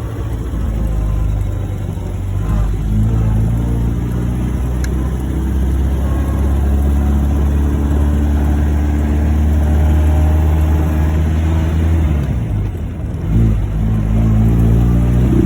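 1949 MG YT's 1250 cc four-cylinder engine pulling steadily in first gear, then dropping away briefly about twelve seconds in for the shift into second gear, and picking up again with a rising pitch near the end.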